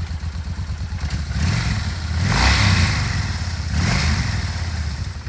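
Kawasaki Vulcan Nomad 1500 V-twin engine idling, then blipped twice: a longer rev that rises and falls back, and a second, shorter one.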